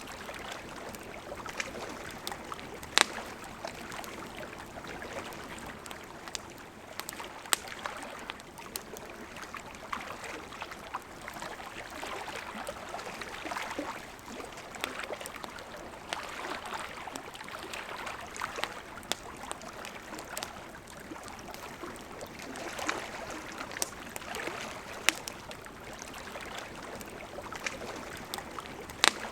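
A river running steadily, with a campfire crackling over it: sharp pops at irregular intervals, a handful of them clearly louder than the rest.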